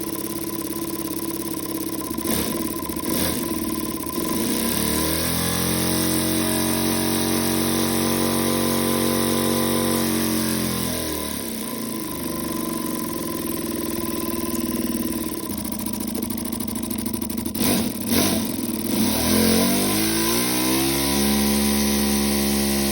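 LEGO pneumatic flat-2 engine running on compressed air, its rapid pulses merging into a buzzing pitch. It speeds up about five seconds in, runs steadily, slows down about halfway through, then speeds up again near the end, with a few clicks along the way.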